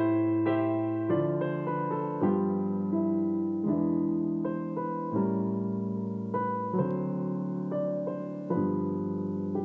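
Solo piano playing slowly, a new chord struck about every second or so and left to ring: a piano cover of a Christmas song used as background music.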